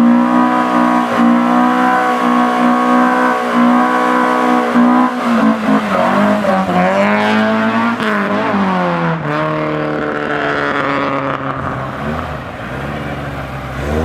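Classic car engine held at high, steady revs for about five seconds, then dropping and climbing again a few times as the car accelerates away, the sound fading near the end.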